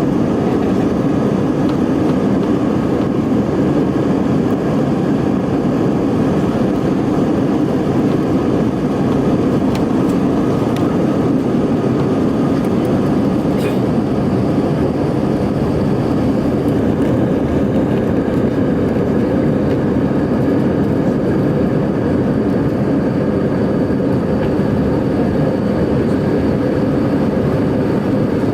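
Steady jet engine and airflow noise of an Airbus A319 in flight, heard inside the passenger cabin: a loud, even rushing with a faint steady hum, unchanging throughout.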